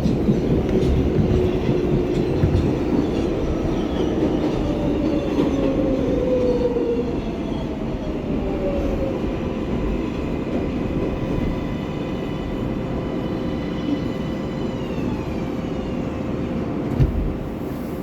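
R188 subway car slowing to a stop: wheels rumbling on the rails under a whine of several tones that fall in pitch and level off as the train halts, with a short thump near the end.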